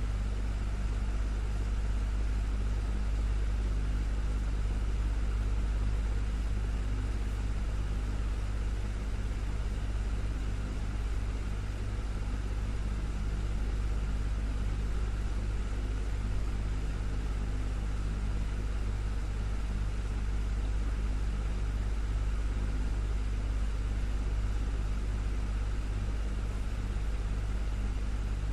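Desktop fan running steadily: a deep, even motor hum under a constant rush of air, with no change in speed.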